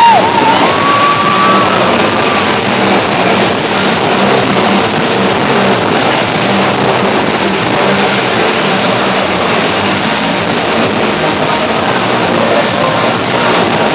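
Motorcycle engines running continuously at high revs as they circle inside a steel globe of death, a loud, steady, dense drone.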